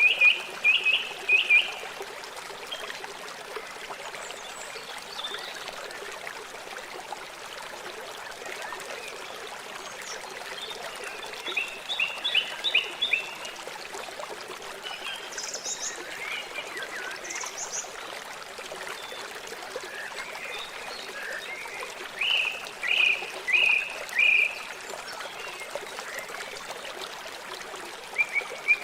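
River water flowing steadily with a continuous rushing hiss. Three times, at the start, near the middle and near the end, a run of four or five short, sharp chirping calls rises above it.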